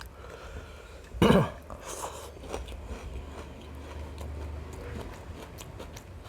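Close-up chewing of a mouthful of biryani, with small wet mouth clicks. Just over a second in comes a short, louder throat noise from the eater.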